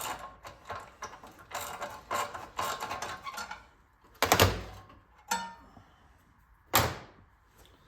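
Metal engine parts and hand tools clinking and rattling during an engine teardown: a quick run of small clicks for about three and a half seconds, then two loud knocks about two and a half seconds apart with a lighter click between.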